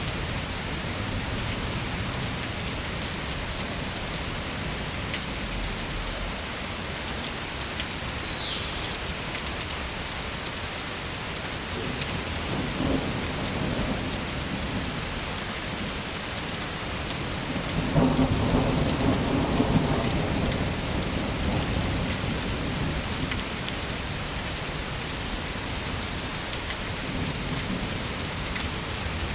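Steady heavy rain hissing, with a roll of thunder rumbling for a couple of seconds about two-thirds of the way through. Scattered sharp crackles from a log fire sit in the background.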